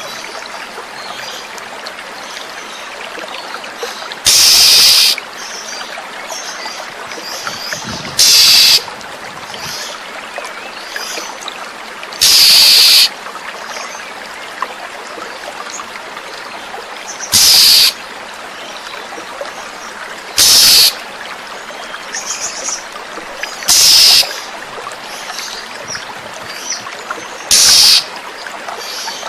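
Flowing water trickles steadily, with faint high bird calls. About seven loud, harsh hissing bursts, each under a second long, cut in every three to four seconds.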